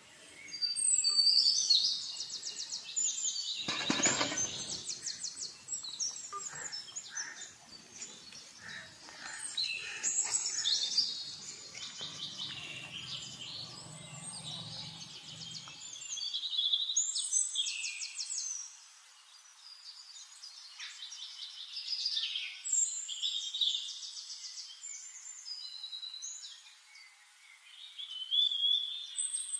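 Birds singing: bouts of rapid, high trilling phrases repeating every few seconds, with a brief low thump about four seconds in.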